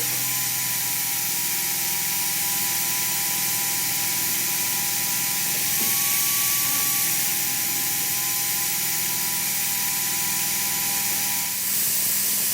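A power tool running steadily with a whine, whose pitch rises briefly about six seconds in and whose tone stops just before the end.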